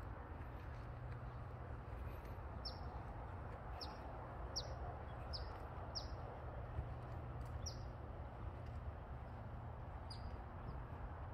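A small bird chirping, a series of short high notes each dropping quickly in pitch, about one a second for several seconds, with a few more near the end. Underneath is a steady low outdoor rumble.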